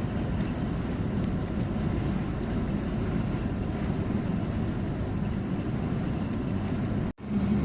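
Truck engine droning steadily with road noise, heard inside the cab while driving. Just after seven seconds the sound cuts out abruptly and comes back as a steadier, evener engine hum.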